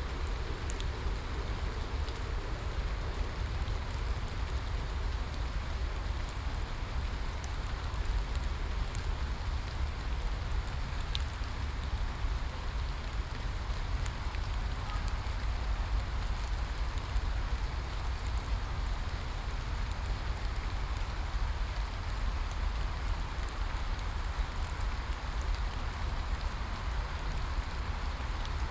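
Steady rain falling, with scattered faint sharp drop ticks over a constant low rumble.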